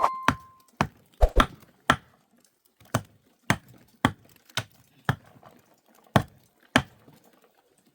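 A dozen or so sharp chopping strikes, about one every half-second, with a short pause a little over two seconds in. A ringing tone fades out at the very start.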